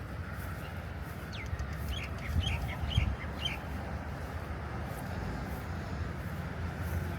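A bird calls a quick run of short chirping notes, starting a little over a second in and stopping before the halfway point. A steady low rumble runs underneath.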